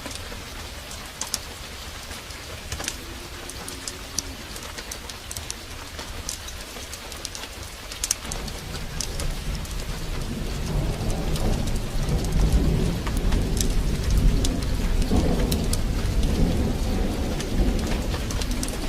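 Heavy rain falling steadily with many sharp ticks and crackles, and a low roll of thunder that starts about halfway through, builds, and rumbles on to near the end.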